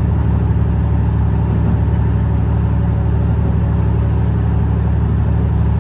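Senseki-Tōhoku Line HB-E210 series hybrid diesel train running along the line, a steady low drone with an even rumble.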